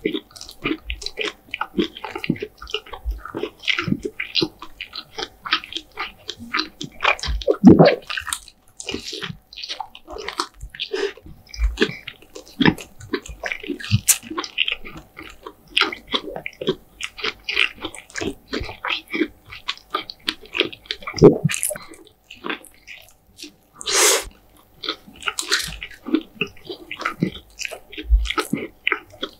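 Close-miked chewing and biting of KFC fast food: a dense run of short mouth clicks and squishes, with a few louder bites or chews.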